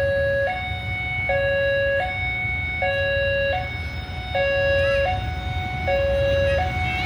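Two-tone electronic warning signal alternating between a low and a higher tone about every three-quarters of a second, over a steady low rumble.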